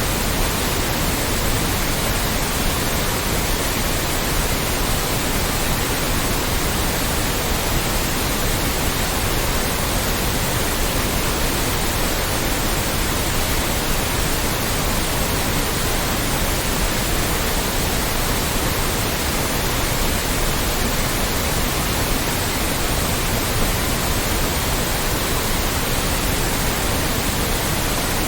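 Loud, steady electronic white noise: an even hiss spread across all pitches, with no change in level.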